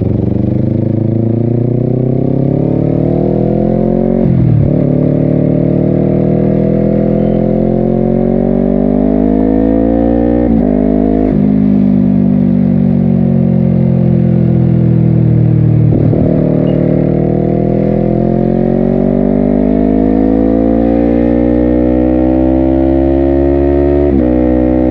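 Honda CBR250RR parallel-twin engine through a Yoshimura exhaust, pulling up through the revs under acceleration. Each pull is broken by a brief cut at the gear change from the quickshifter, four or five times, and the pitch sags slowly in the middle as the rider eases off.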